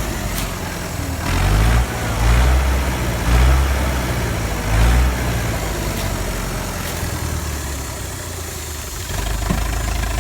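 Tractor engine running, revved up in four short bursts over the first five seconds, then running steadily at lower revs and picking up again near the end.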